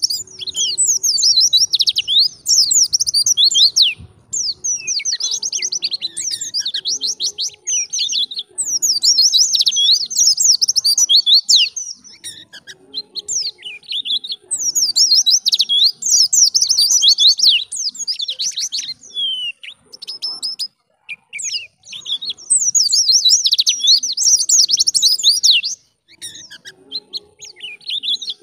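White-eye (pleci) singing: rapid, high twittering song phrases of a few seconds each, broken by short pauses.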